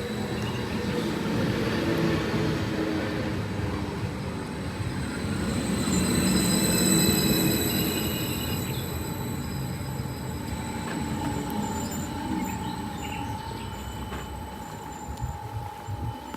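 Train running past with a steady rumble and thin, high wheel squeals. It grows louder about six seconds in, then slowly fades.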